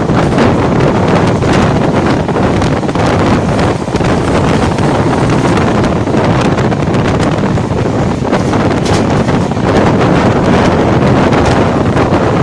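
Wind buffeting the microphone at the open door of a fast-moving passenger train, over the steady running noise of the coach on the track, with many short irregular thumps and rattles.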